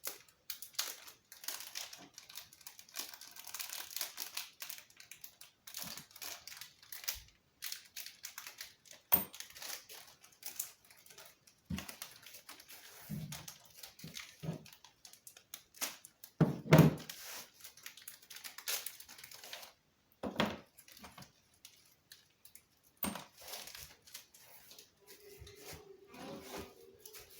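Packaging being handled during unboxing: plastic bags and wrapping crinkle and tear, with small parts clicking and knocking. A heavier thump comes about 17 seconds in.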